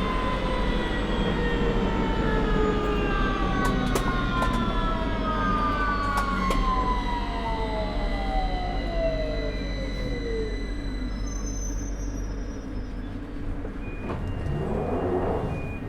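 London Underground 2009 Stock train's traction motors whining as it brakes, several tones falling together in pitch and dying away about ten seconds in, under steady rumble and a few sharp clicks. A short burst of noise comes near the end as the train comes to a stop.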